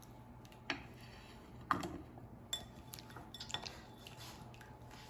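A spoon clinking and scraping against a dish as carrots are scooped out, about five separate knocks, some with a short ring.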